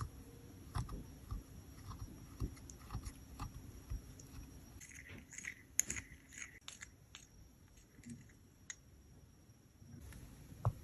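Scattered light taps and clicks, with a few short scrapes about five to six seconds in, from small tools and makeup being handled during a cosmetic repair; the sounds thin out over the last few seconds.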